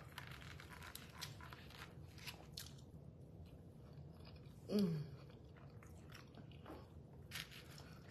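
Faint chewing and mouth sounds of a person eating, with small scattered clicks. About halfway through, a brief hummed sound that falls in pitch stands out.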